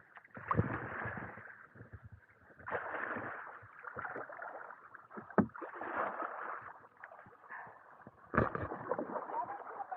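Water splashing and sloshing around a kayak in uneven surges, with a couple of sharp knocks.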